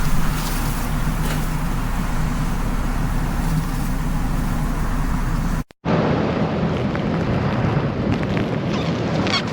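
Steady outdoor noise of road traffic and gusting wind during a storm. About six seconds in it cuts out briefly and a second recording with a heavier rumble takes over.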